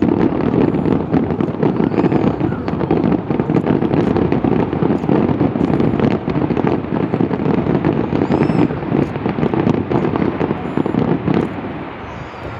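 Dense barrage of aerial fireworks, with bangs and crackles packed into a continuous rattle. It starts suddenly and eases off near the end.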